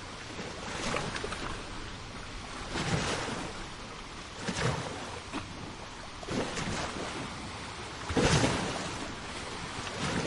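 Sea waves washing onto the shore, a surge every second or two over a steady hiss of surf, the biggest about eight seconds in.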